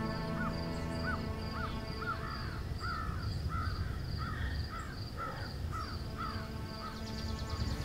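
A bird calling in a long series of short rising-and-falling notes, about two or three a second, growing louder and then stopping about six and a half seconds in, over a soft sustained music drone.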